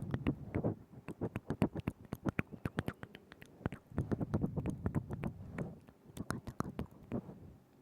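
ASMR mouth sounds made right at a binaural microphone: rapid wet tongue and lip clicks in quick runs, with breathy low smacking between them.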